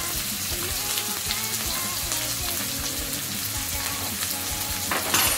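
Diced chicken breast, onion, garlic and ginger frying in oil in a nonstick wok: a steady sizzle. A brief louder burst of noise comes near the end.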